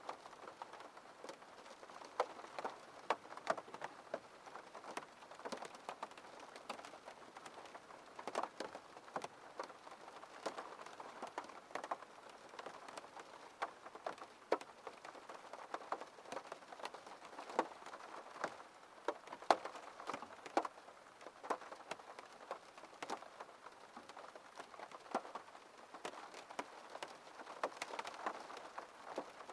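Rain falling on a window pane, a steady patter with many separate drops ticking against the glass at irregular moments.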